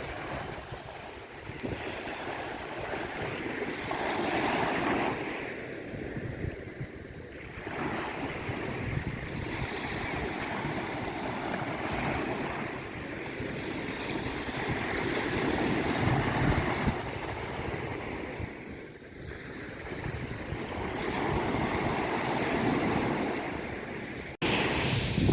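Sea waves breaking and washing up the shore, swelling and falling away in slow surges every few seconds. There is an abrupt edit near the end, after which the surf is louder.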